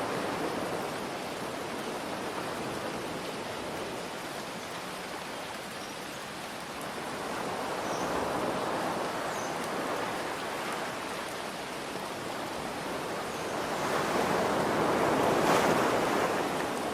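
Ocean waves breaking under steady rain: a continuous hiss of water that swells and ebbs, with a larger wave surging up to the loudest point near the end.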